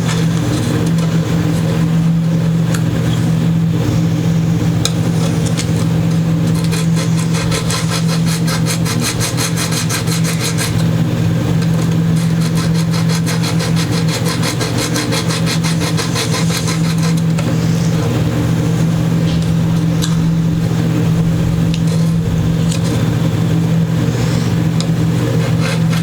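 Metal file or abrasive rubbing back and forth over a guitar fret to take a high fret down, a steady rasping scrape. Under it runs a loud, steady mechanical hum.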